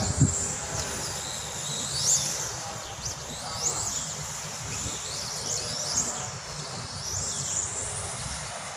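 Birds chirping outdoors, with several short rising whistled calls, over a steady low rumble. A brief low thump comes just after the start.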